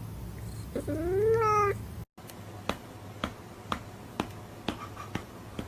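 A cat meowing once, a long call that rises and then falls in pitch. After a brief cut it is followed by steady ticking, about two ticks a second.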